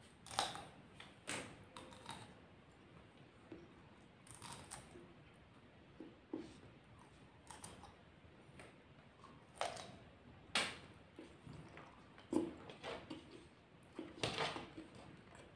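Close-up eating sounds of a person chewing fried rice with raw bird's eye chilies: soft, irregular mouth clicks and smacks about once a second, a few of them sharper than the rest.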